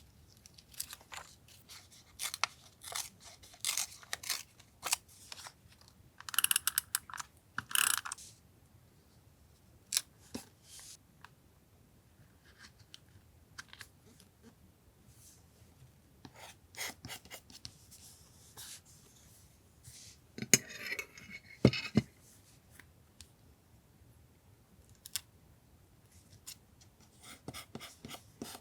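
Scissors cutting paper in quick runs of snips, mixed with paper rustling and small taps as pieces are handled. The busiest, loudest stretches come several seconds in and again about two-thirds through, with quieter pauses between.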